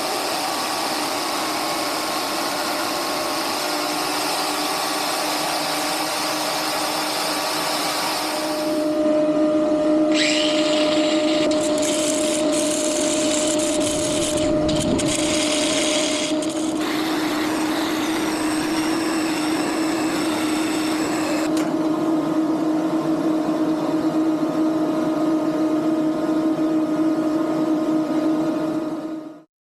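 A power tool's motor running steadily. The sound turns harsher and hissier from about ten to seventeen seconds in, then cuts off suddenly near the end.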